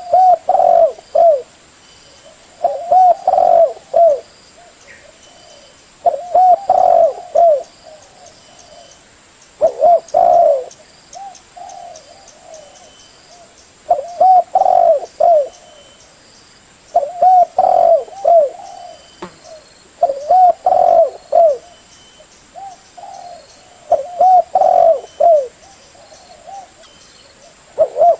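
Spotted dove cooing its repeated call: phrases of a few short, arching coos, one phrase every three to four seconds.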